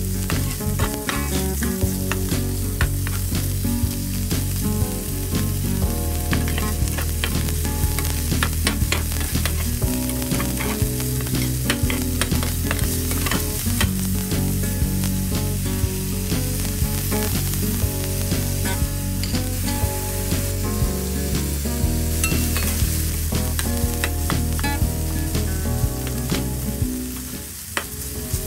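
Ground pork, onion and garlic sizzling in hot oil in a frying pan while being stirred with a spatula, with frequent small scrapes and taps of the spatula on the pan. The sizzle dips briefly near the end.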